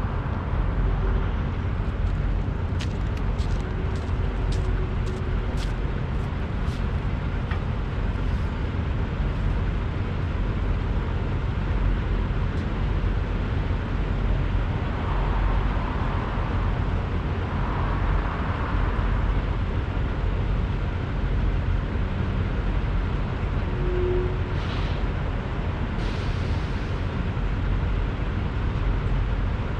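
Steady low rumble of idling diesel semi-trucks. Early on there is a run of sharp clicks, about two a second, and near the end a brief hiss.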